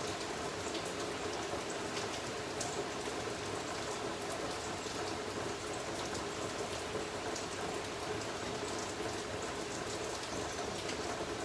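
Steady rain falling, an even patter with faint scattered drop ticks.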